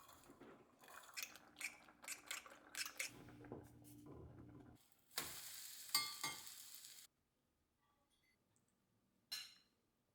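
Kitchen utensils clinking and scraping against dishes in quick, irregular strokes for about five seconds. Then a steady hiss with a few clicks for about two seconds, which cuts off abruptly. After that, near silence with one short noise near the end.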